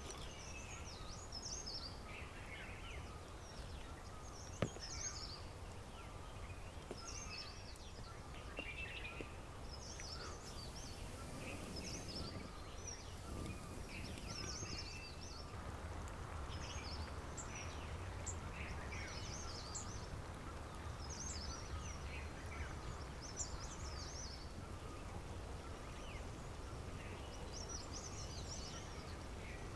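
Wild songbirds chirping and singing in many short, high phrases, overlapping, over a steady low background rumble. There is a single sharp click about four and a half seconds in.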